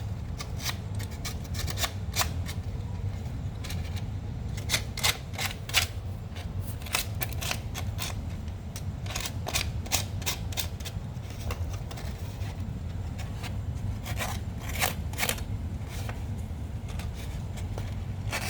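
Carbon brush from a cooling-fan motor being filed by hand on sandpaper: irregular light scratching strokes and small clicks, to round its corner so it stops sticking in its holder. A steady low hum underlies it.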